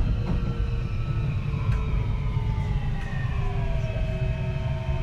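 Kintetsu 3220 series train's Hitachi IGBT VVVF inverter motors whining over the low rumble of the running train. Several whine tones slide steadily down in pitch as the train slows under braking.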